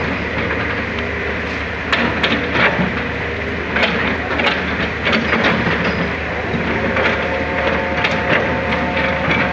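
Hydraulic excavator's diesel engine running steadily, with irregular knocks and scraping clatters as the bucket digs into rock and soil in the riverbed.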